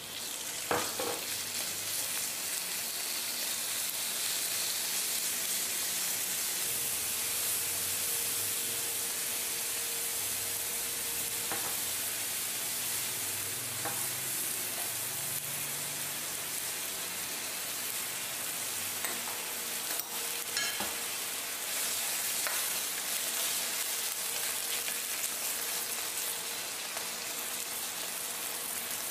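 Thin strips of beef sizzling in hot oil in a wok as they are stir-fried, with a few scrapes and taps of the spatula on the pan. The sizzle jumps up just after the start, and sauce is poured over the meat partway through.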